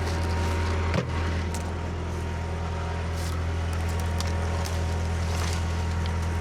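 Skid steer engine running steadily, with a single sharp clunk about a second in.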